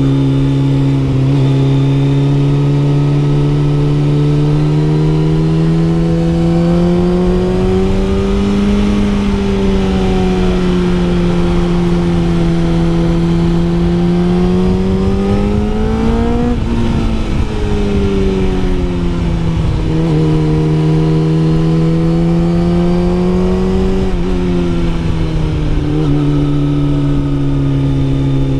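Kawasaki ZZR600's inline-four engine running under load while ridden, revs climbing and easing off in long swells, with a few sudden drops in pitch at gear changes, about two-thirds of the way in and again near the end. Wind rush runs underneath.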